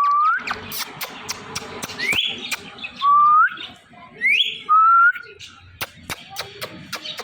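Pet parrot whistling a series of short rising notes, about five of them, some sweeping up higher than the others. Sharp clicks are scattered between the notes, more of them in the second half.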